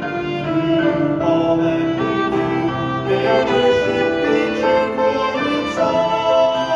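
Ensemble music: several held notes in smooth melodic lines over sustained lower notes, played steadily.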